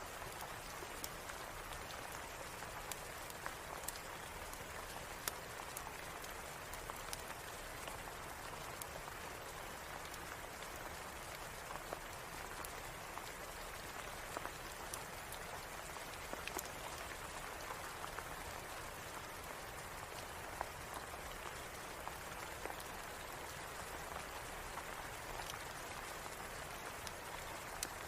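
Steady rain, an even hiss with many scattered sharp ticks and pops.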